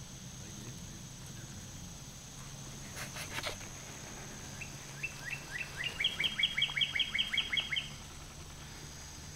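A songbird singing: a run of quick, downward-sliding chirps that speeds up and grows louder over about three seconds, starting about halfway through. A brief cluster of clicks comes about three seconds in, over a faint steady low hum.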